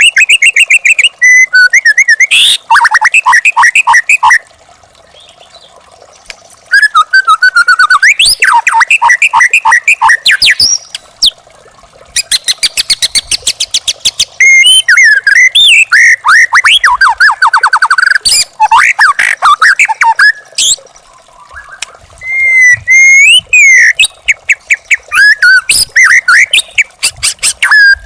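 Young wild white-rumped shama (murai batu) singing loud, varied phrases of rapid repeated notes, trills and whistled slurs, broken by two short pauses.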